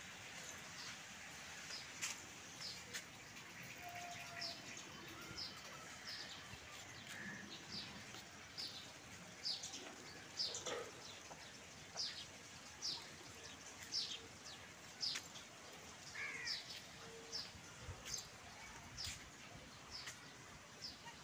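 A small bird chirping over and over: short, high, downward chirps, roughly one or two a second, from about two seconds in.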